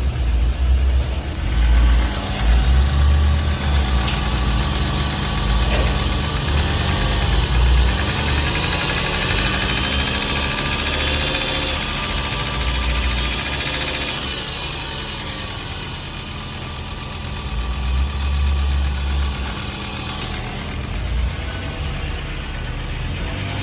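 2008 Volkswagen Beetle's 2.5 L inline five-cylinder engine running, idling steadily at first, then climbing in speed about eight seconds in and falling back to idle around fourteen seconds in.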